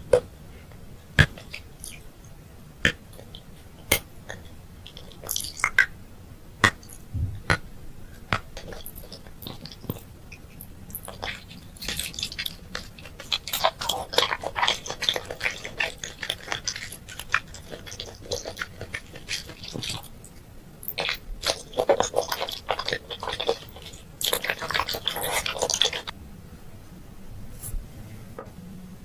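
Close-miked eating of candy: sharp separate clicks and bites for the first dozen seconds or so, then dense bursts of wet, crackling chewing.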